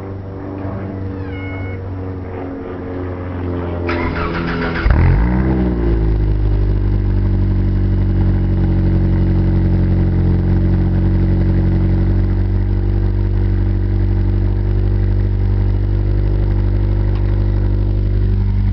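Ford Tempo with its muffler removed, leaving only the open exhaust pipe and chrome tip, starting up. The starter cranks briefly about four seconds in, the engine catches with a quick rise in revs, and it then settles into a steady, loud idle on its first start of the day.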